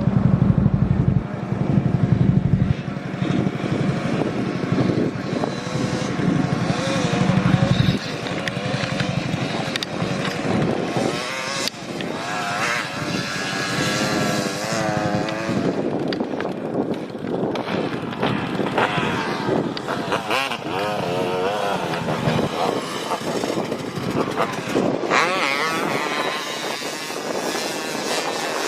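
Dirt bike engines running and revving. One bike runs close by for the first several seconds, then engine pitch rises and falls repeatedly as the bikes are revved and ridden.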